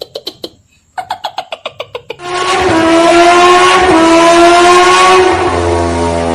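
An engine puttering in rapid, even pulses, stopping for a moment, then running hard at a high, steady pitch that rises slowly and steps down about five seconds in.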